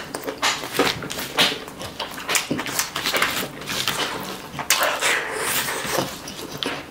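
Close-up wet chewing and lip-smacking of a mouthful of rice, in short irregular bursts, with squelches as bare fingers gather rice on a banana leaf.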